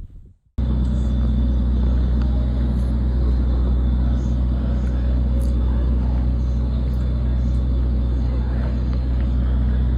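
A motor vehicle running steadily, a constant low engine drone with rumble, cutting in abruptly about half a second in.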